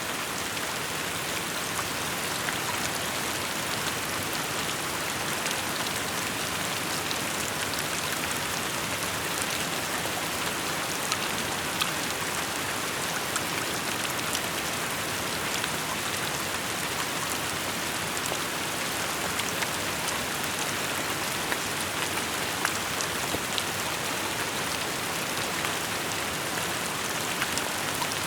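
Steady rainfall: an even hiss with many individual drops ticking sharply on surfaces.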